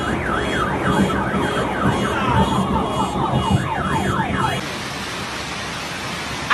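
A car alarm sounding a rapid warbling tone that sweeps up and down about two to three times a second, over a steady hiss. The alarm cuts off suddenly about two-thirds of the way through, leaving only the hiss.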